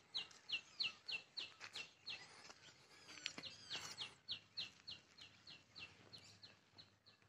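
A bird calling faintly: a steady run of short, high notes, about four a second, with a pause of about a second and a half around two seconds in, and fainter chirps from other birds around it.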